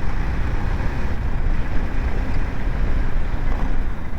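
Wind rushing over the microphone on a moving BMW G 310 GS, with the motorcycle's single-cylinder engine running steadily underneath.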